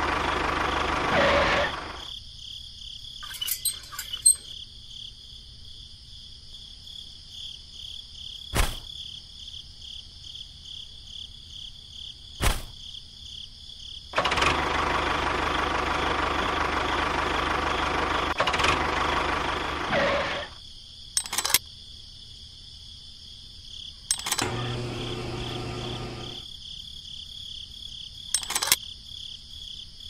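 Engine running noise, loud at the start and again for about six seconds in the middle, each stretch cut off abruptly. Between them it is much quieter, with a steady high whine and a few sharp clicks.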